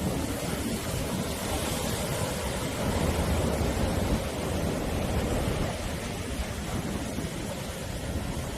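Sea waves breaking and washing on the shore in a steady rush, swelling a few seconds in, with low wind rumble on the microphone.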